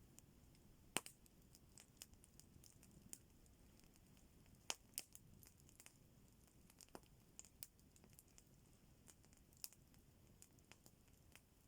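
Campfire crackling faintly: irregular sharp pops and snaps over near silence, the loudest about a second in and another pair near the middle.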